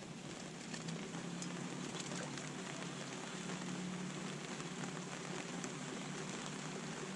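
Steady rain falling, an even hiss with scattered drop ticks, over a low steady hum.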